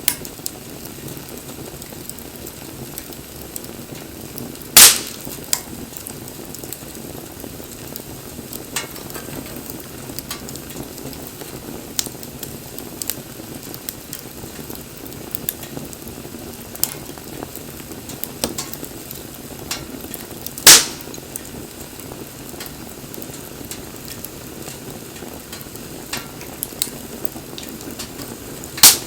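Wood fire crackling, with scattered small pops and three loud sharp snaps: about five seconds in, about twenty-one seconds in, and near the end.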